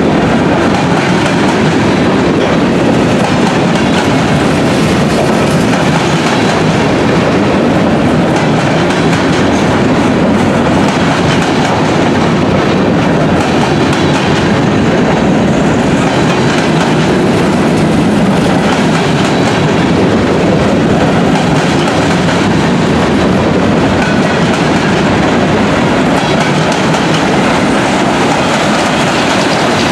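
Freight train cars, covered hoppers followed by boxcars and gondolas, rolling past close by: a loud, steady rumble and clatter of steel wheels on the rails.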